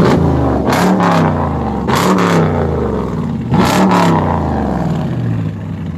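Hemi V8 exhaust through Flowmaster Super 44 mufflers, revved three times in quick blips, the engine speed falling back toward idle after each.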